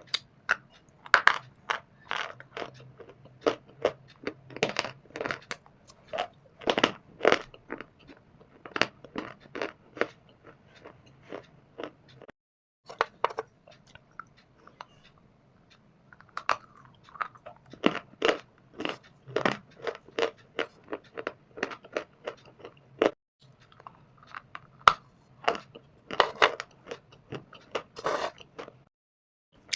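A person biting into and chewing dry shale stone and baked clay, a quick run of sharp, brittle crunches one after another. The crunching breaks off twice into a moment of dead silence, about twelve seconds in and again about twenty-three seconds in.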